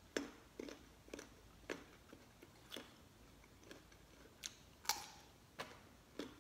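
A person chewing a raw carrot stick with the mouth close to the microphone, giving crisp crunches at irregular intervals, roughly one or two a second.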